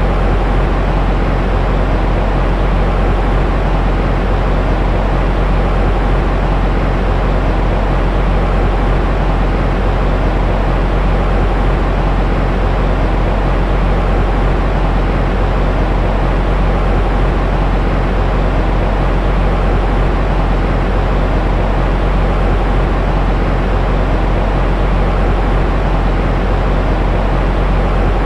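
Steady, unbroken white noise for baby sleep, deep and rumbling, heaviest in the bass with little hiss on top.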